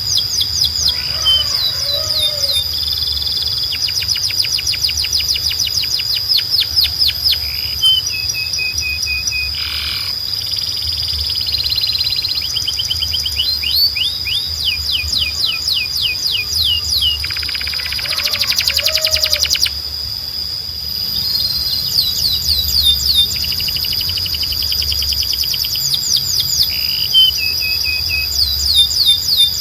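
Canaries singing in long rapid trills of repeated downward-sweeping notes, with a dense buzzing roll about two-thirds of the way through. A steady high tone and a low hum run underneath.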